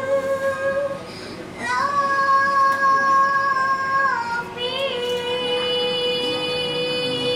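A young girl's solo singing voice holds long, high, wordless notes over backing music. One note is held for about two and a half seconds, and a slightly lower note begins about two-thirds of the way in and is sustained through the end.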